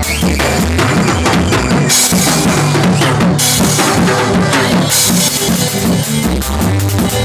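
Band music with a prominent drum kit, bass drum and snare over a repeating bass line.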